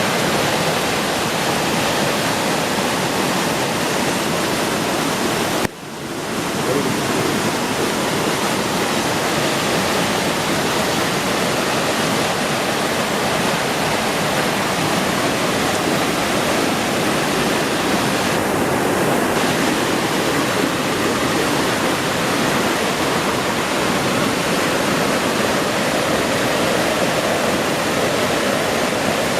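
Monsoon waterfall pouring heavily: a dense, steady rush of falling water. Near six seconds in it cuts out for a moment and comes straight back.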